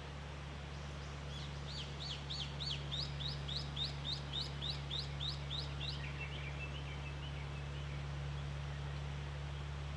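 A small songbird sings a rapid series of about a dozen high, repeated chirping notes, roughly three a second. It ends about six seconds in with a short, lower twitter. A steady low hum runs underneath throughout.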